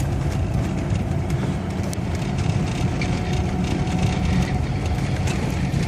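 VAZ-2106 Zhiguli driving through deep snow, heard from inside the cabin: a steady low engine and road rumble with an even hiss of tyres and snow above it.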